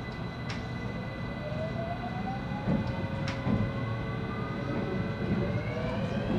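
JR West 223-2000 series electric train's motor car accelerating: the VVVF inverter whine rises steadily in pitch in several tones over the low rumble of the running gear, with a few sharp clicks.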